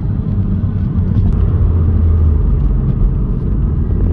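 Chevrolet Cobalt SS's turbocharged four-cylinder engine running while the car is driven, heard from inside the cabin as a steady low drone.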